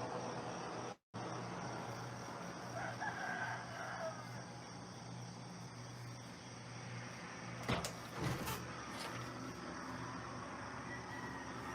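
A rooster crowing once, about three seconds in, over a steady outdoor hiss and low hum. The sound drops out for a moment about a second in, and two sharp knocks come near eight seconds.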